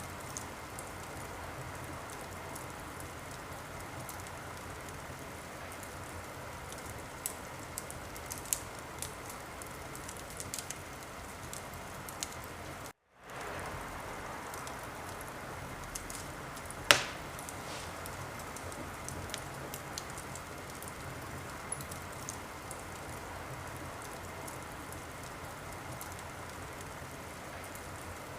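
Wood fire crackling in a fireplace: a steady hiss with scattered small snaps and pops. The sound cuts out for a moment about halfway through, and a few seconds later one loud pop stands out above the rest.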